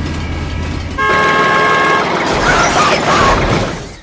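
A low steady rumble, then a vehicle horn sounding one steady blast of about a second, followed by a loud, rough noise for about two seconds that fades at the end.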